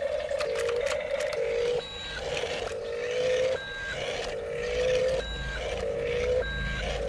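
Electronic sound effects from a battery-powered toy: a repeating run of beeping notes, each lasting about a second, with short higher beeps between them.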